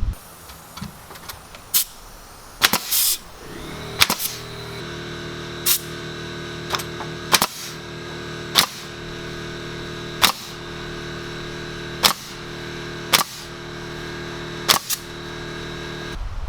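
Nail gun firing single sharp shots into cedar siding, roughly one every one and a half seconds. A steady droning hum comes in about five seconds in and runs under the shots until just before the end.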